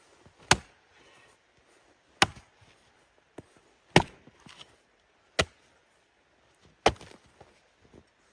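Wood being chopped with an axe: five sharp, evenly spaced strikes about a second and a half apart.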